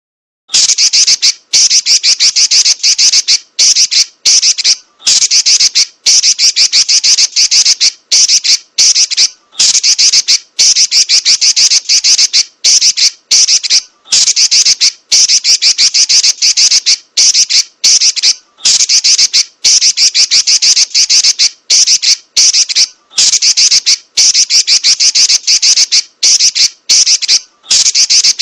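Female red-billed leiothrix (Pekin robin) giving loud, rapid, high-pitched chattering trills in long runs broken by brief pauses.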